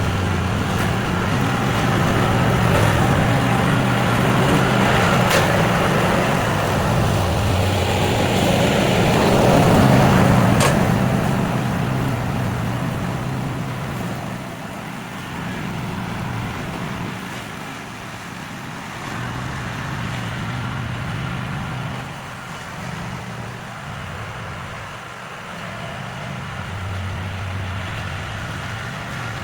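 An engine running steadily, swelling to its loudest about ten seconds in and then easing off.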